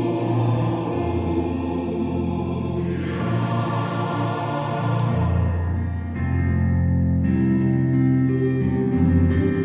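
Choir singing long held chords with piano accompaniment, the low notes shifting every second or two.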